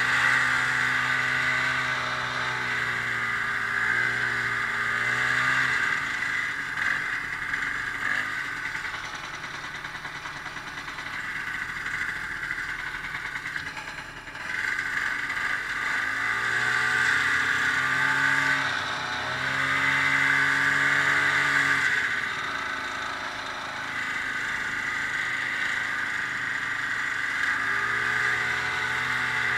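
Ski-Doo snowmobile engine running under way. The pitch holds steady for stretches, eases off for several seconds around the middle with a brief lull about halfway through, then picks up again.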